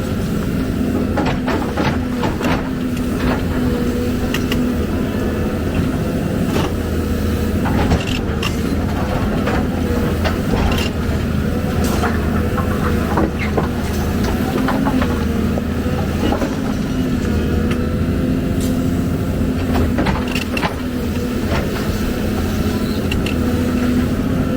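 Excavator's diesel engine running steadily, with many sharp knocks and clanks over it.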